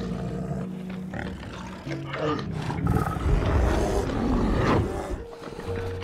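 Brown bear growling, loudest about three to five seconds in, over background music with sustained notes.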